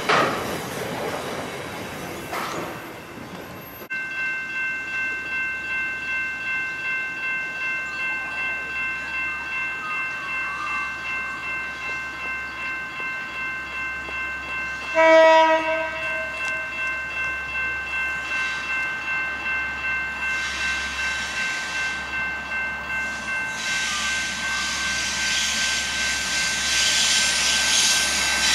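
Container freight wagons clattering past on the rails. Then level crossing bells ring in a steady pulsing rhythm, about one and a half strokes a second. A short train horn blast sounds about halfway through, and the rumble of an approaching locomotive-hauled train grows louder near the end.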